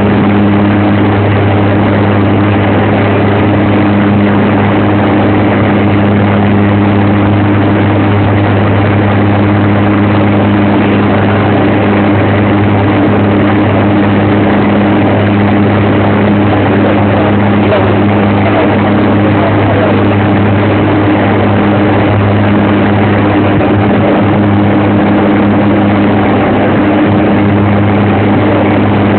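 Aircraft engine and propeller drone, a loud, steady low hum that holds the same pitch and level throughout.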